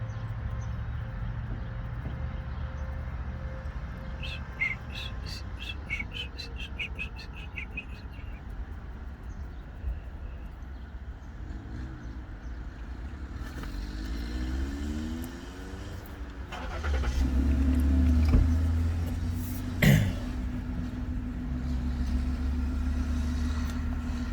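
A steady low car-engine and road rumble, with a vehicle approaching and passing close by in the second half, rising to its loudest for a couple of seconds, then a sharp click. A short run of high bird chirps comes about four seconds in.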